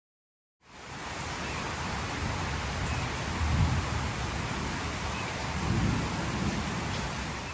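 Steady rain hiss fading in after a brief silent gap, with a low rumble swelling twice, about three and a half and six seconds in.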